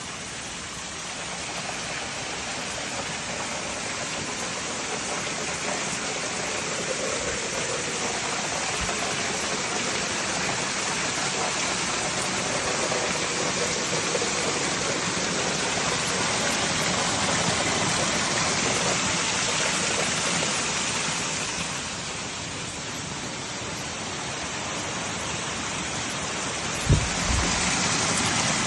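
Waterfall, a steady rushing roar of falling water that swells and eases slightly. There is a brief thump near the end.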